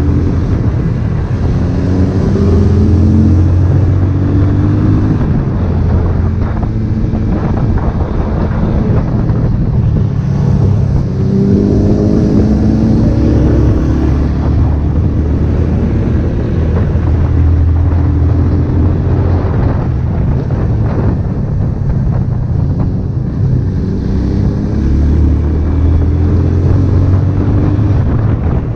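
Honda CB1000R's inline-four engine running while the bike is ridden, its pitch rising and falling several times as it accelerates and eases off, with wind noise over the microphone.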